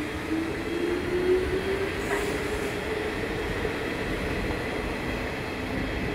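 The Rail Kitchen Chikugo train easing slowly along the platform, with a steady rumble from the cars and a clear whine that rises slightly in pitch over the first few seconds. There is one faint click about two seconds in.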